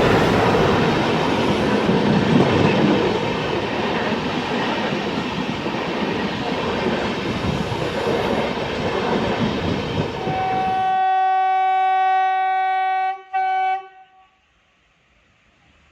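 Diesel-hauled passenger train running past with a loud, steady noise, led by an Alco WDG 3A locomotive. Near the end the horn sounds: one long blast, a brief break, then a short one, after which it goes quiet.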